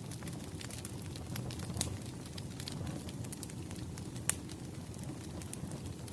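Crackling wood fire: irregular sharp pops and snaps over a low, steady rumble of flames, with one louder pop about four seconds in.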